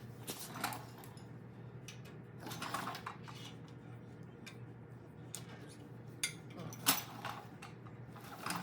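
Metal clinking and scraping as a magnet is worked down a pin bore to draw out a Bobtach pivot pin, in a few short bouts with a sharp click about seven seconds in.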